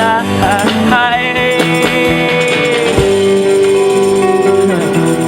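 A band playing a rock song: guitar with tambourine, with a wavering melody line over sustained notes early on and held notes afterwards.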